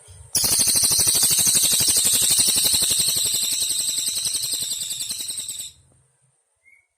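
Cililin bird singing one long, rapid, high-pitched trill of about five seconds that starts suddenly, fades a little and then stops abruptly. A faint high insect buzz sits in the background before it.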